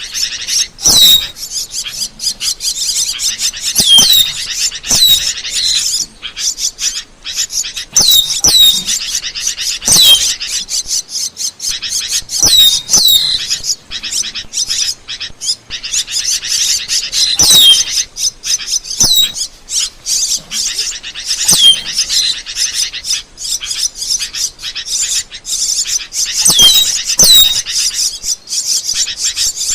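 Asian glossy starling calling: a continuous stream of high, chattering clicks and squeaks, with a sharp downward-sliding whistle every second or two.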